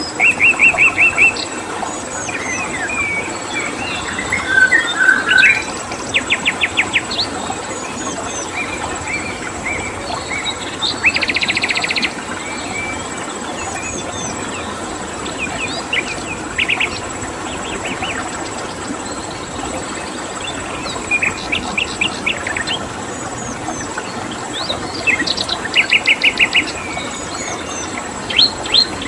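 Several songbirds chirping in short rapid trills and calls over a steady rush of running water, with a constant high-pitched cricket-like drone.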